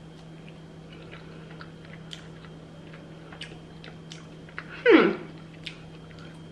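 A person chewing a soft, sauce-coated bite of battered vegan sausage, with small wet mouth clicks scattered through, over a steady low hum. About five seconds in comes one short falling vocal 'mm'.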